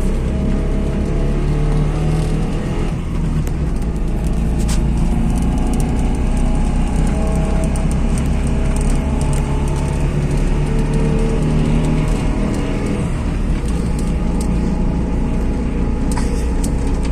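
Trabant 601's two-cylinder two-stroke engine running while driving, with its pitch shifting about 3 seconds in and again about 13 seconds in. Scattered clicks and rattles sound over it.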